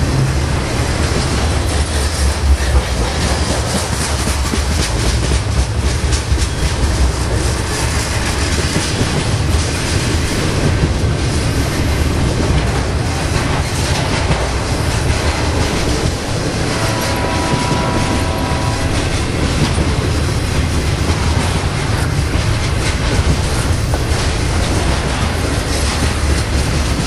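BNSF trailer-on-flatcar intermodal freight train passing: a steady loud rumble of steel wheels on rail with clickety-clack over the joints. A brief ringing tone sounds about two-thirds of the way through.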